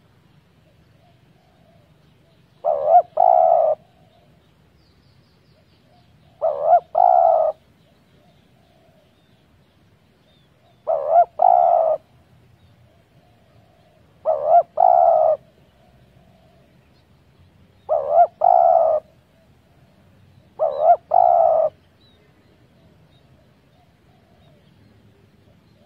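Spotted dove cooing: six loud phrases of two or three notes, each about a second long, repeated every three to four seconds, with fainter cooing between them.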